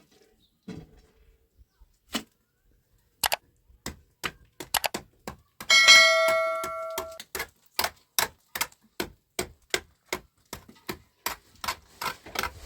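A quick run of sharp knocks, two or three a second. About six seconds in comes one loud metallic clang that rings for a second or so.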